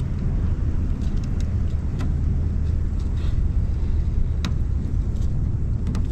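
A vehicle driving, with a steady low road and engine rumble and a few light clicks and rattles.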